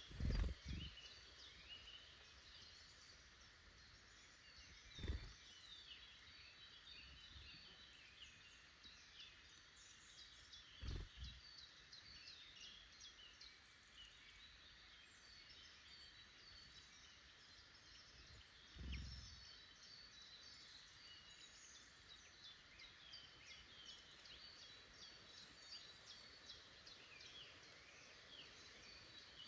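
Many small woodland birds chirping and singing faintly, with overlapping short calls and trills throughout. Four low thumps break in: one near the start, then at roughly 5, 11 and 19 seconds.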